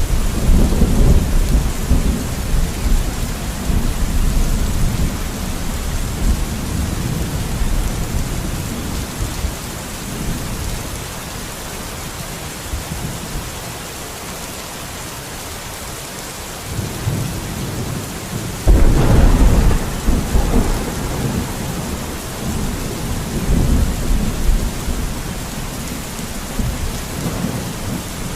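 Steady rain hiss, with two deep rolling rumbles, one at the start and one about two-thirds of the way through, each fading away over several seconds.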